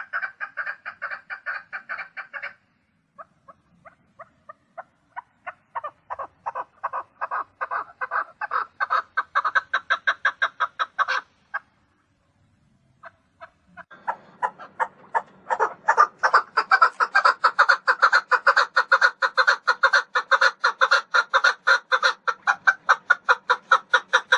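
Chukar partridge calling: a fast, even series of clucking 'chuck' notes, about four or five a second, in three bouts separated by short pauses. The middle bout starts softly and grows louder.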